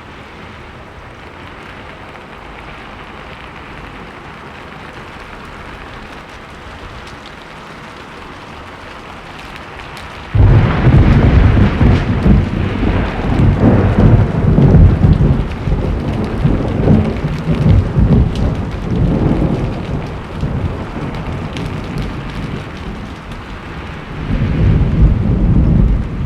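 Steady rain falling, then about ten seconds in a sudden loud crack of thunder that rolls on as rumbling for several seconds and slowly fades; a second roll of thunder swells near the end.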